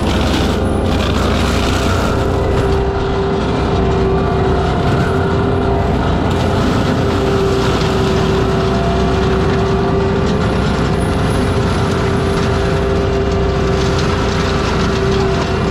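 ASV RT-120F compact track loader with a forestry mulcher head, running steadily and loudly, a steady whine held over the engine's rumble.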